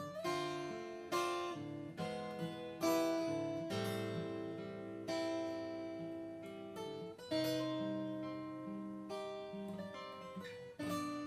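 Acoustic guitar playing an instrumental passage of a folk song: chords struck every second or two and left to ring, with no singing.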